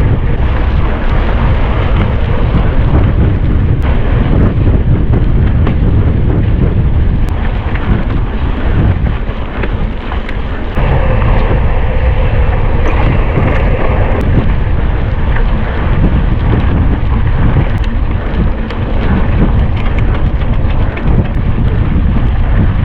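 Wind buffeting the microphone of a camera on a moving mountain bike, with a steady rush of noise and frequent small knocks and rattles from the bike on rough ground.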